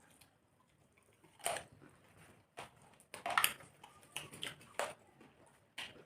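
Eating sounds: scattered short smacks and chewing noises as rice and chicken curry are eaten, coming a second or so apart, with a cluster about three seconds in.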